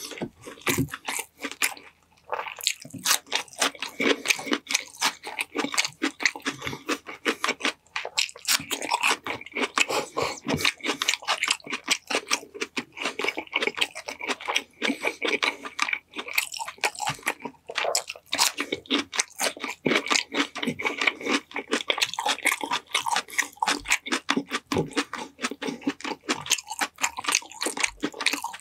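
Close-miked mouth sounds of a person eating a honey-glazed chicken meal: continuous chewing and biting, a dense run of small clicks and smacks with occasional crunches.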